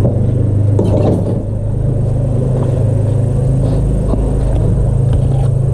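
Electric mixer motor running at a steady speed, a loud, even hum with a few light clicks about a second in.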